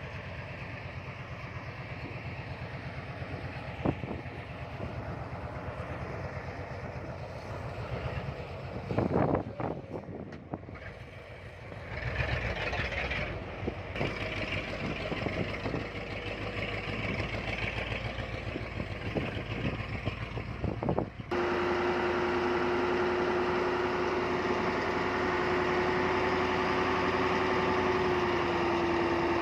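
Heavy earthmoving machinery running: diesel engines working, with a few knocks. About two-thirds of the way through, the sound switches abruptly to a louder, steady engine drone with a constant whine.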